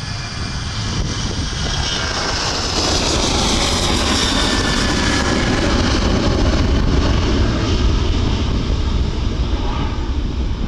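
Jet airliner's engines passing close by: a loud roar that builds over the first few seconds, with an engine whine that slides down in pitch as it goes past.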